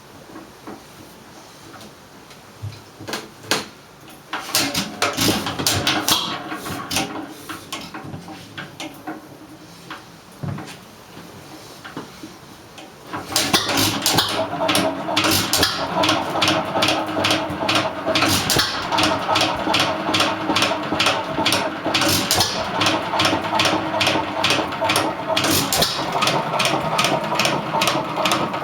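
Hercules 1.5 hp hit-and-miss stationary engine, a single-cylinder, being started. There are scattered clicks and short bursts of knocking in the first seconds. About halfway through it catches and runs with a steady, rapid, even beat.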